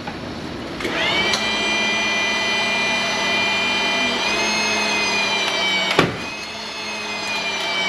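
Hydraulic shop press pump running with a steady whine that steps slightly higher about four seconds in as it builds pressure; a single sharp crack about six seconds in, after which the whine carries on more quietly.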